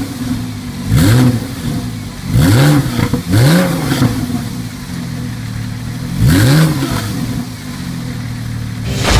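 2014 Porsche 911 Carrera 4S's 3.8-litre flat-six engine revved in four quick blips, each rising and falling back, settling to a steady idle between them.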